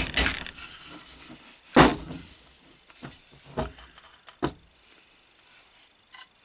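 Rummaging through small parts on a workbench: a few scattered knocks and clatters, the loudest about two seconds in.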